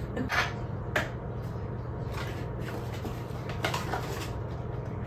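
Kitchen handling sounds while getting ready to make coffee: a sharp click about a second in and a few short scraping rustles, like a cupboard and dishes being handled, over a steady low hum.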